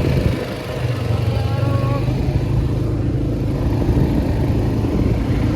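ATV engine running steadily at low speed while being ridden.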